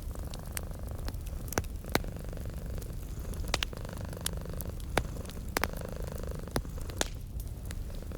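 A cat purring steadily and low, over a fireplace fire crackling with sharp pops scattered through, the loudest about two, five and seven seconds in.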